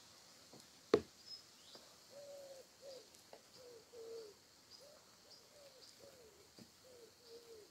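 Outdoor birdsong: a run of about ten short, low, arching calls in a steady series, with faint high chirps above them. A single sharp tap about a second in is the loudest sound.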